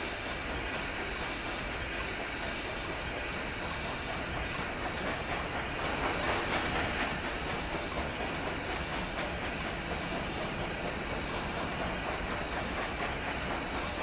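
Steam-hauled passenger train rolling along the track: steady wheel rumble with a clickety-clack over the rail joints, a little louder for a couple of seconds mid-way.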